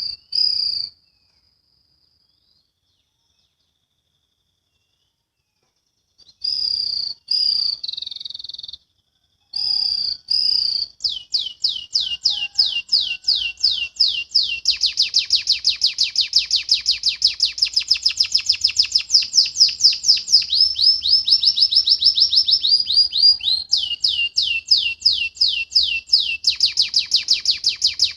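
Domestic canary singing: a few short high chirped phrases, then from about ten seconds in a long, fast trill of rapidly repeated downward-sweeping notes, the 'ngriwik' rolling style. The trill changes pace twice in the second half.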